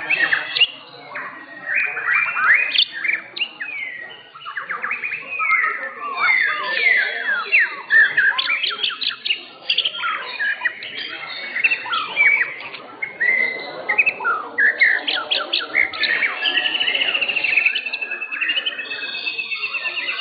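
White-rumped shamas (murai batu) singing: a dense, unbroken stream of varied whistles, quick slurred notes, rapid trills and harsh chatters, with a long, evenly repeated trill near the end.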